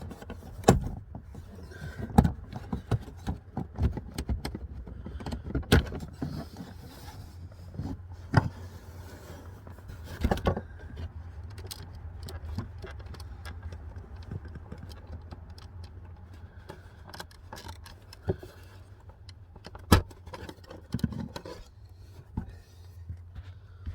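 Irregular clicks, knocks and rattles of hard plastic trim as the lower dash panel of a BMW F30 is worked loose and handled, over a steady low hum.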